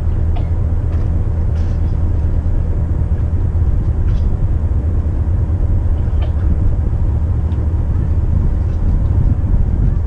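Steady low drone of a McKinna 65 motor yacht's engines running under way, heard on board, with a few faint clicks.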